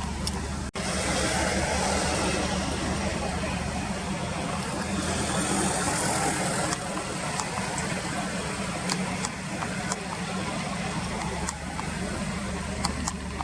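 Steady riverside background noise: an even rush with a low hum beneath it, like road traffic, broken by a brief dropout about a second in and a few short high ticks.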